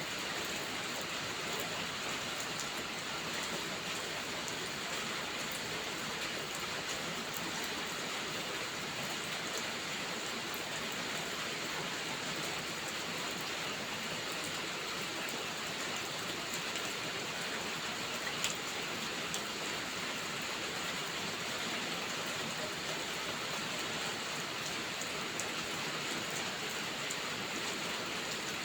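Steady rain falling, an even hiss. A few faint clicks are scattered through it, the clearest about two-thirds of the way in.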